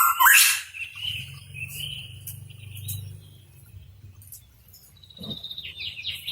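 Pitohui singing: a loud, harsh call at the start, then a thinner drawn-out whistled note, and a cluster of short falling notes near the end.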